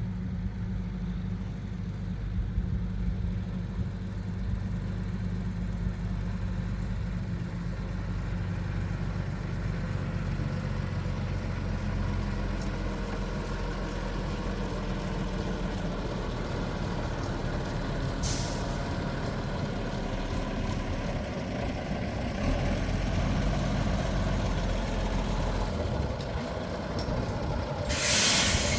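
Heavy lorry engine running steadily, with a short hiss of air brakes about two-thirds of the way in and a longer, louder air-brake hiss near the end.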